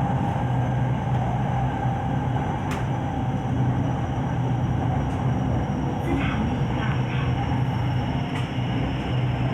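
SRT Red Line electric commuter train running, a steady even hum with a low tone and a fainter high tone from its running gear and motors.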